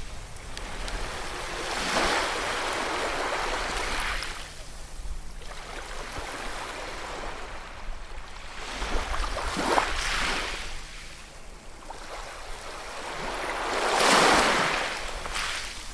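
Ocean waves washing on a shore: surf rushes in and draws back in slow swells, the loudest break coming near the end, over a low rumble.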